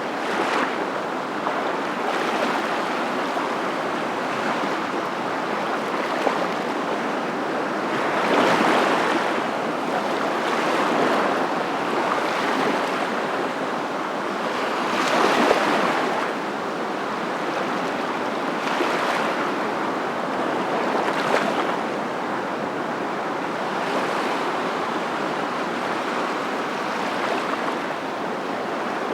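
A steady rushing noise that swells and fades every six seconds or so, with the strongest swells about a third and halfway through.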